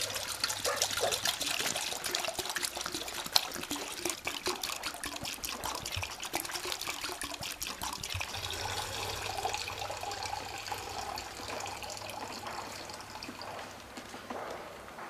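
Water being poured from a plastic bottle into a cooking pot in a steady stream that fades near the end.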